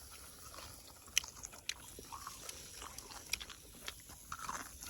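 Someone chewing and biting food close to the microphone, with scattered short clicks.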